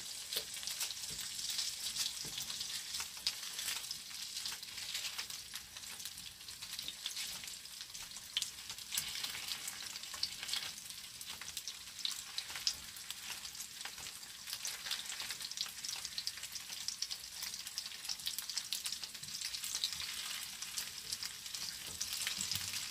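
Frankfurter sausages sizzling in a frying pan over a gas burner: a steady hiss with scattered small crackles and pops.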